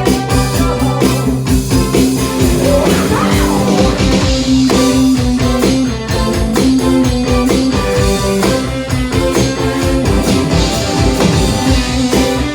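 Rock band playing a song, with electric guitar over a drum kit's steady beat.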